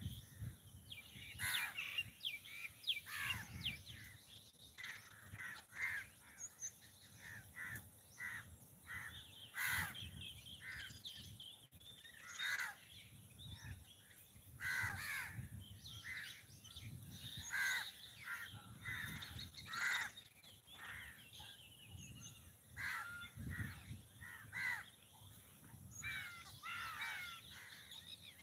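Birds calling again and again: many short calls, a few each second, coming in clusters with brief gaps between them.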